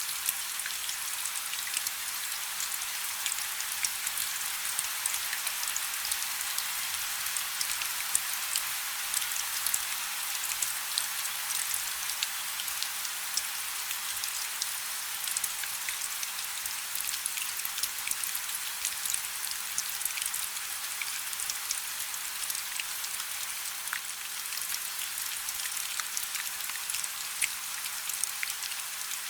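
Light rain falling steadily: an even high hiss with many small, distinct drop ticks scattered through it.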